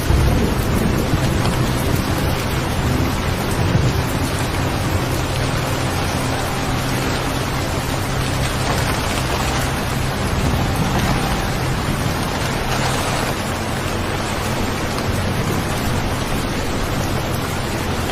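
Steady rain falling, an even hiss, with a low rumble during the first few seconds.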